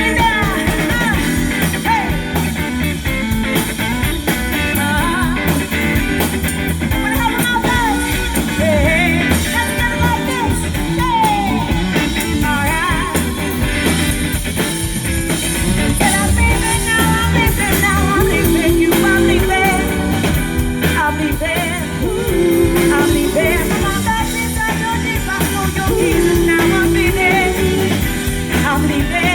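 A band playing rock and roll with a singer, over a steady beat.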